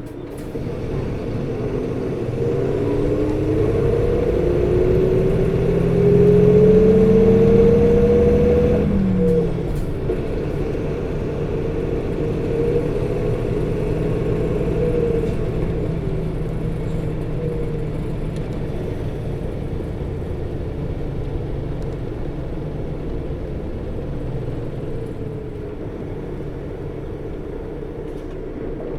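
Nissan Diesel RA274 city bus engine and drivetrain under way: accelerating with a whine that rises for about nine seconds, then easing off abruptly and running on steadily, slowly quietening. Its viscous-coupling cooling fan is engaged throughout, its whir unusually high for the engine speed.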